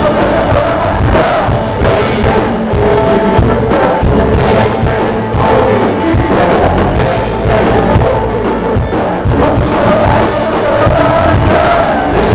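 Live gospel band music played loud, with a drum kit keeping a steady beat and voices singing.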